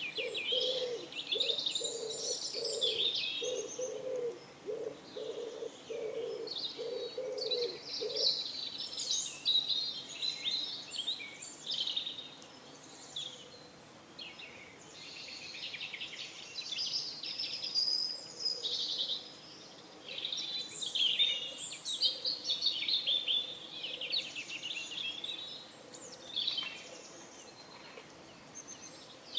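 Small songbirds chirping and twittering throughout. For the first eight seconds or so a pigeon coos in a run of low notes, about two a second.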